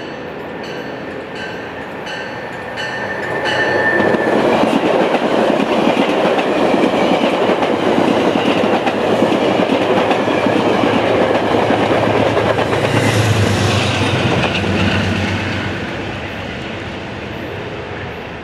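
Passenger train headed by a P32AC-DM locomotive coasting past close by. Its wheels click evenly over the rail joints as it approaches, then there is a loud, steady rumble and hiss of steel wheels on rail while the coaches go by. The sound dies away as the train recedes.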